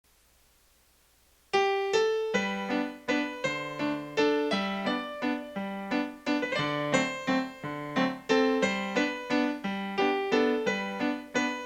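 A keyboard playing a steady melody over lower bass notes, each note struck and then fading, starting about a second and a half in.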